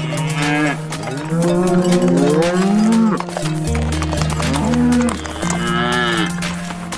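Cattle mooing several times, long calls that rise and fall in pitch, over background music with held bass notes.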